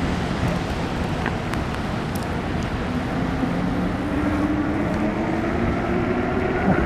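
Riding noise from a fat-tire e-bike in the rain: steady wind rumble on the microphone and road noise, with a low hum that rises slowly in pitch from about halfway through as the bike picks up speed.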